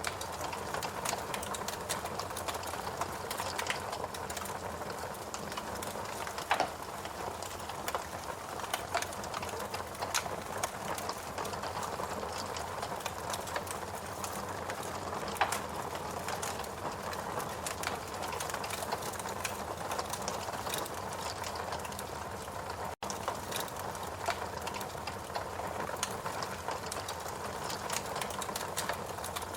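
Fireplace crackling: scattered sharp pops and snaps over a steady rushing noise, broken by a brief dropout about 23 seconds in.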